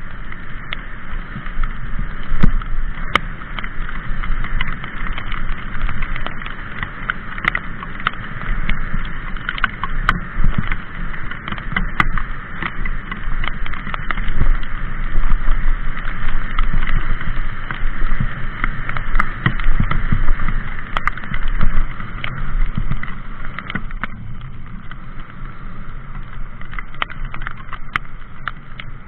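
Mountain bike being ridden over rough trail: a steady rushing noise with frequent sharp knocks and rattles from the bike as it goes over bumps.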